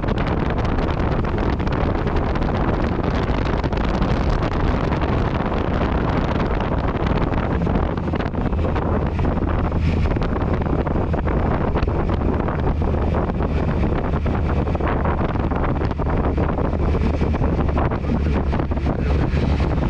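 Yamaha MT-09 Tracer's three-cylinder engine running steadily through an Akrapovič exhaust while riding, with wind buffeting the microphone.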